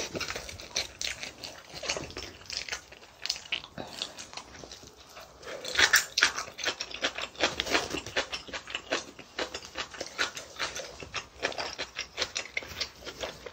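A person chewing a mouthful of rice close to the microphone: many small, irregular wet mouth clicks, loudest about six seconds in.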